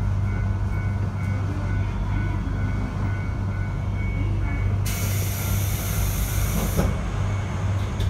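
721 series electric train running, heard from inside the carriage as a steady low rumble and hum with a faint high whine. About five seconds in, a sharp hiss starts abruptly and cuts off about two seconds later.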